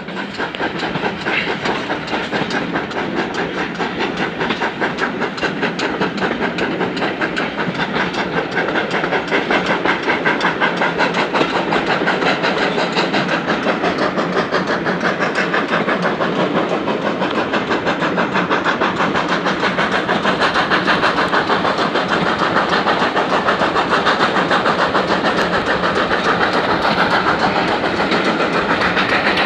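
Steam train hauled by the GWR Manor-class 4-6-0 Foxcote Manor pulling out, a steady fast rhythm of exhaust beats and wheels on the rails that grows a little louder after about ten seconds.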